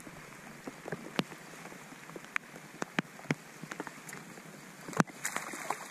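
Steady rain falling on the lake surface, with irregular sharp taps of nearby drops scattered through it and one louder tap about five seconds in.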